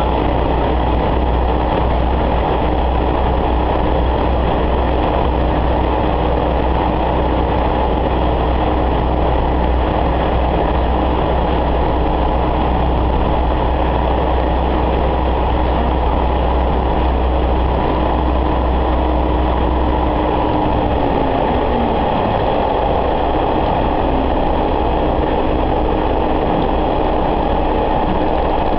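Diesel railcar running on the line, heard from inside the car: a steady engine drone under rail and running noise. About twenty seconds in, the engine's low hum and tone drop away as the power eases off, and the car runs on more quietly underneath.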